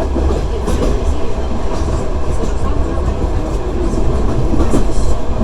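Passenger train running at speed, heard from inside the carriage: a steady low rumble of wheels on rails, with a few scattered clacks as the wheels cross rail joints.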